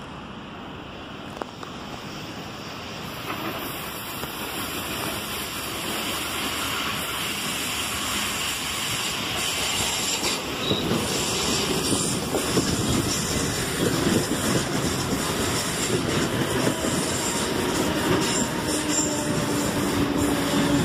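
CNR 3000-series electric multiple-unit train approaching, growing steadily louder, then its wheels clicking over the rail joints as the cars run past close by. A steady low hum comes in near the end.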